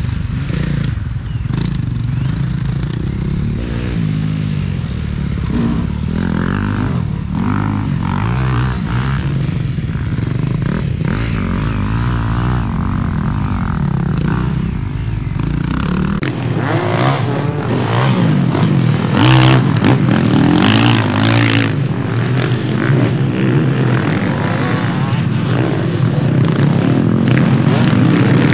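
Motocross bikes racing, their engines revving up and down over and over as the riders work the throttle around the track.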